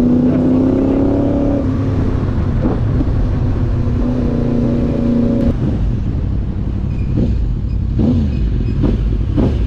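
Motorcycle engines running with a heavy low rumble. One engine note holds and rises slightly through the first second and a half, then holds again from about four to five and a half seconds in. A few short rising and falling engine notes come near the end.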